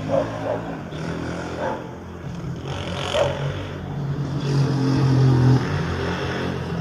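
A motor vehicle's engine running, growing louder to a peak about five seconds in, as if passing.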